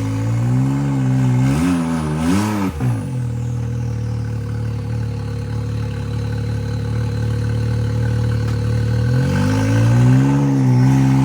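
Side-by-side UTV engine revving in several short surges as it bumps at a rock ledge, with a brief knock about three seconds in. It then settles to a steady low run and revs up again near the end.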